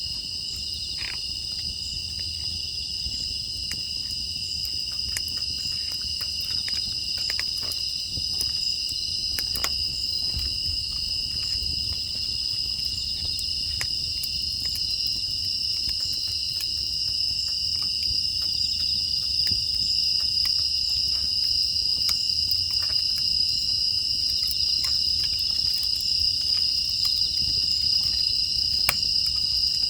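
Crickets and other grass insects chirping in a steady, unbroken chorus, with scattered small crackles and pops from a wood fire.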